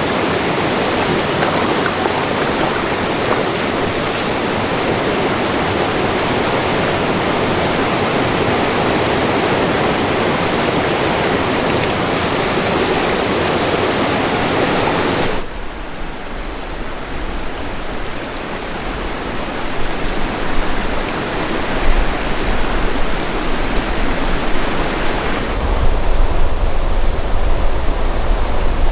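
Steady rushing of a mountain stream. About halfway through it cuts off suddenly, giving way to an uneven low rumble that grows louder toward the end.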